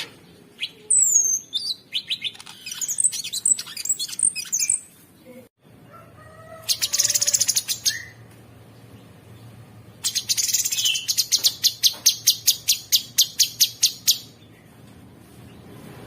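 Cucak sungkok singing: a busy mix of whistles, chirps and short trills. After a brief break comes a rapid trill, then a long run of fast repeated notes, about six a second.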